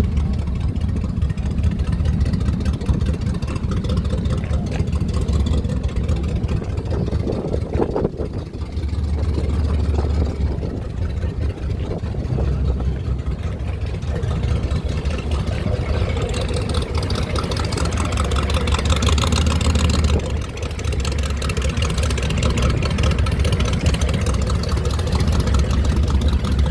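Classic car engine idling steadily close by, a deep low-pitched running sound that eases briefly a couple of times.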